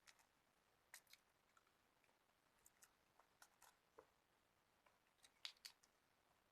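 Faint, scattered clicks and soft crunches of someone eating: chewing and biting food, with the loudest crackle about five and a half seconds in.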